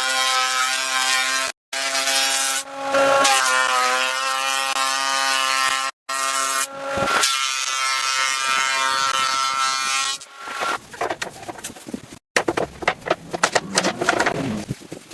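Electric power tool cutting wood: a steady motor whine with a hiss of cutting over it, the pitch sagging briefly under load, cut off abruptly twice. After about ten seconds it gives way to a quick run of irregular knocks and scrapes of hand work on wood.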